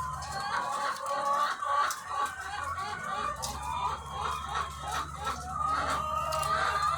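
A dense chorus of many egg-laying hens clucking and calling over one another. A low steady hum underneath drops out just after the start and comes back about three seconds in.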